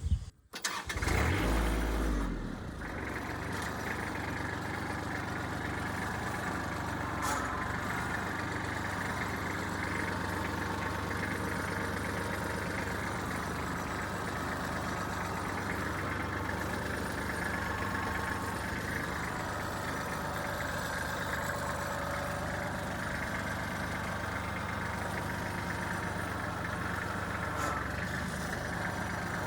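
Kubota L3400 tractor's diesel engine starting about a second in with a brief surge, then running steadily at idle.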